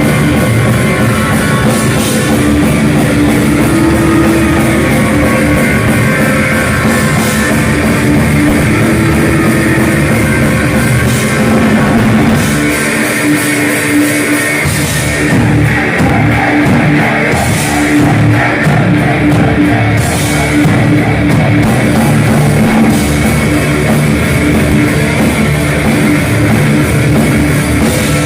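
Live heavy metal band playing loud, with distorted electric guitars and a drum kit; the deepest bass drops out briefly about halfway through before the full band comes back in.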